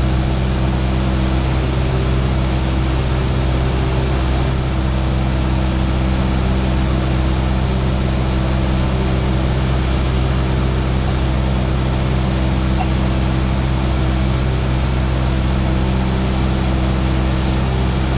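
Cessna 172R's four-cylinder Lycoming engine and propeller running steadily in cruise, heard in the cabin as an even drone over a constant hiss of airflow.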